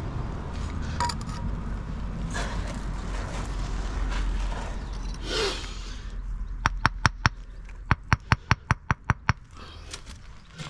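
Mortar being worked and scraped, then about a dozen sharp taps in quick succession as an engineering brick is knocked down into its mortar bed to level it.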